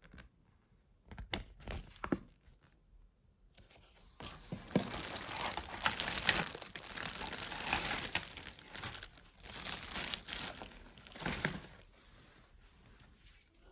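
Plastic packaging being crumpled and handled. A few short rustles come in the first couple of seconds, then steady crinkling from about four seconds in until near the end.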